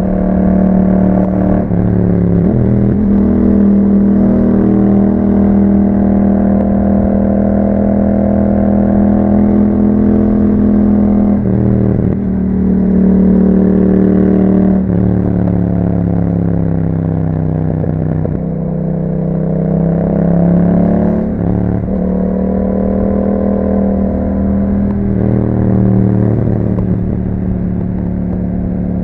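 2021 Yamaha MT-07's 689 cc parallel-twin engine running through an Akrapovic exhaust while riding. The engine note holds steady for stretches and is broken about half a dozen times by gear changes and throttle rolls, rising and falling in pitch.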